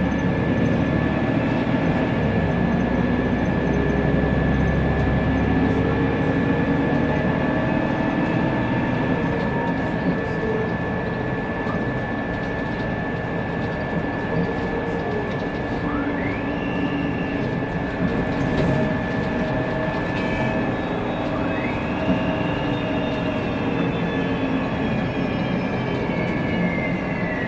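Interior running sound of a Mercedes-Benz Conecto NGT CNG city bus on the move: a low engine rumble under a steady high whine. Twice the Voith DIWA automatic gearbox's whistle rises in pitch as the bus picks up speed, then falls near the end as it slows.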